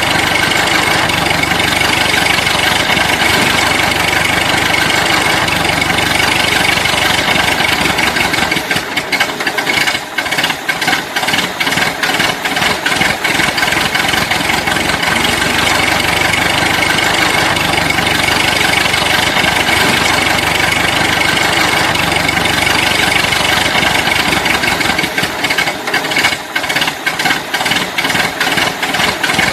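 A loud engine sound running steadily, breaking into quick chugging pulses for a few seconds about a third of the way in and again near the end.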